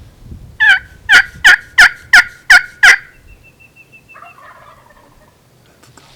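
A run of seven loud turkey yelps, about three a second, stopping about three seconds in.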